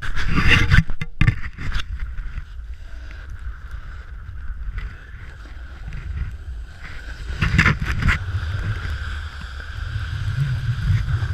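Snowboard sliding down a snowy slope, heard through a body- or helmet-mounted camera: steady wind rumble on the microphone with the board scraping the snow, and a cluster of sharp knocks and scrapes in the first two seconds and again about seven and a half seconds in.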